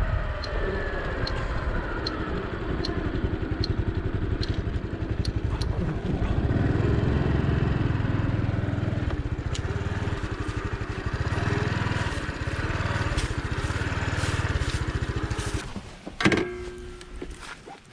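Honda Cross Cub's single-cylinder engine running steadily, then shutting off near the end, followed by a single knock.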